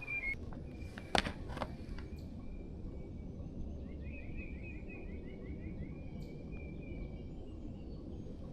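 Songbirds singing, with a quick trill of rapidly repeated notes about halfway through, over a steady low rumble. Two sharp knocks about a second in are the loudest sounds.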